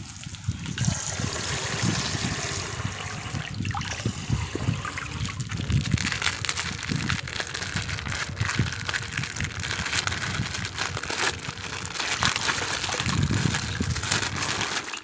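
Water splashing and sloshing, with many small clicks and knocks.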